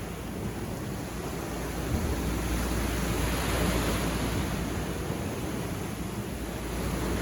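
Ocean surf washing onto the beach, a wave swelling and breaking about halfway through, then receding.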